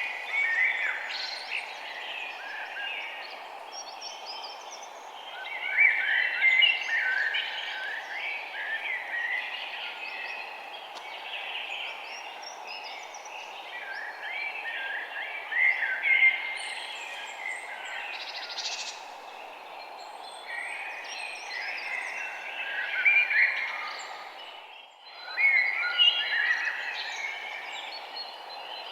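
Birds chirping and twittering in overlapping bursts over a steady low background hiss. The whole sound briefly dips out about 25 seconds in.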